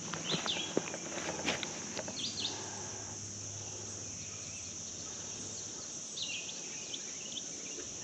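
Outdoor ambience: a steady high insect drone, with short bird chirps about half a second in, around two seconds in, and twice near six to seven seconds. A few faint scuffs or footsteps in the first two seconds.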